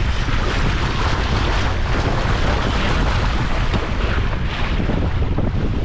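Wind buffeting the camera microphone in a steady low rumble, with an even rushing hiss over it.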